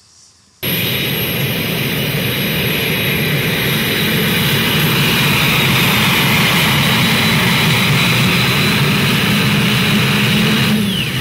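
Modified pulling tractor's engine running loud and steady at full power. The sound starts abruptly about half a second in.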